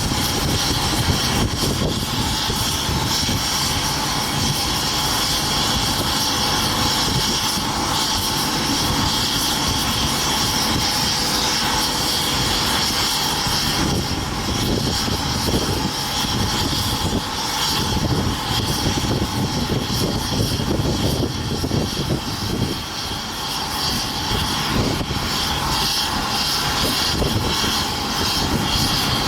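Boeing 777-300ER's twin GE90-115B turbofan engines running, a steady, loud jet noise with a strong high whine over a rumbling low end.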